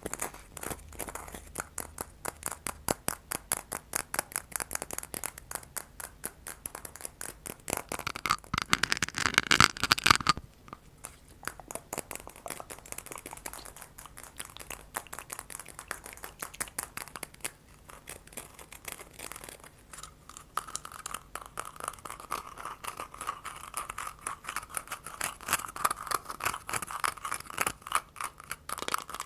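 Rapid tapping and scratching on objects close to a microphone, many strokes a second. The strokes grow louder for about two seconds around eight seconds in, then stop sharply and resume quieter; in the second half a steady mid-pitched tone runs under them.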